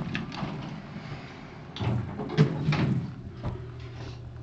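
Sliding doors of a 1970s Dover traction elevator moving, with a run of clicks and a sharp clunk about two and a half seconds in, then a steady low hum.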